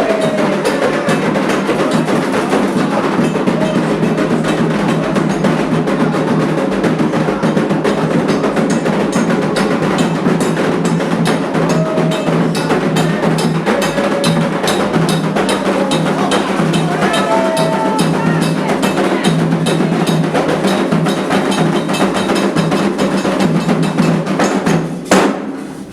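Candomblé ritual percussion: drums and a struck bell playing a fast, even rhythm, with voices singing now and then. It cuts off about a second before the end.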